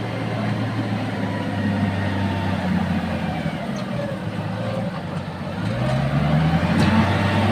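Heavy diesel engine running steadily at a low speed, then revving up about six seconds in, its pitch climbing and the sound getting louder.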